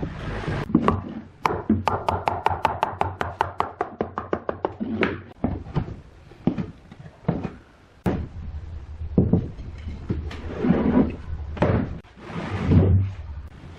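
Knocking and tapping on wood: a quick run of about twenty sharp taps over three seconds, then scattered single knocks.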